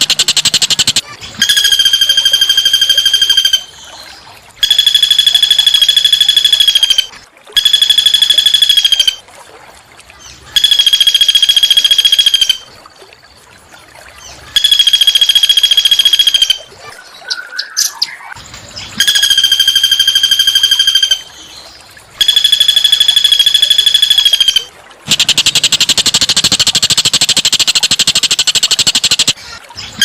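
A small bird singing a harsh, buzzy trill on one steady pitch, repeated about eight times in phrases of two to three seconds with short pauses between. A few brief chirps come in the longer pause near the middle.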